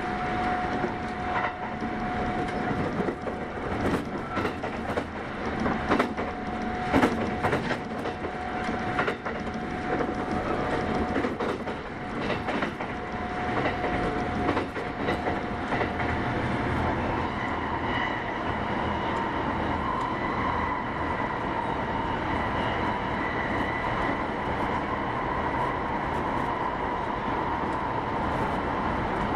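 Kintetsu 8810-series electric train running, heard from inside the car: a steady rumble with a burst of rail-joint clicks a few seconds in. A steady whine sets in a little past halfway.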